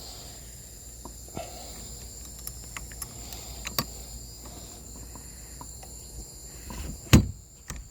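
Boat's ski pole being worked up out of its mount: scattered small clicks and knocks, then one loud clunk about seven seconds in. A steady high-pitched whine runs underneath.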